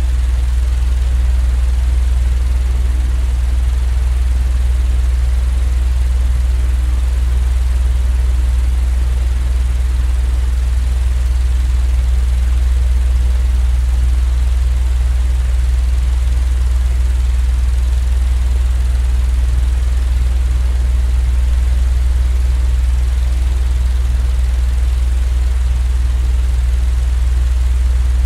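Steady, unchanging white-noise drone: a strong low hum with a softer, even hiss above it, the kind of looped fan or train rumble played as a sleep aid.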